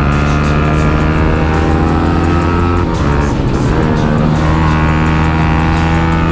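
Motorcycle engine with an aftermarket Akrapovic exhaust running at steady revs while riding. The revs dip and change about three seconds in, then hold steady again.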